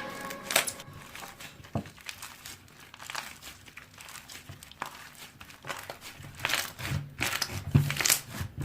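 Slime being handled and pressed by hand, making irregular crinkly crackles and small clicks that come thicker toward the end.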